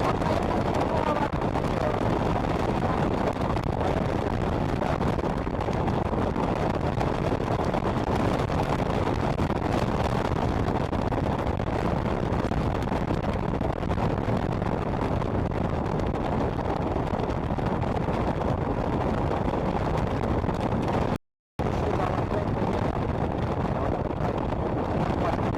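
Steady rush of wind on the microphone mixed with a motorcycle's engine and road noise while riding at speed. The sound cuts out briefly about 21 seconds in.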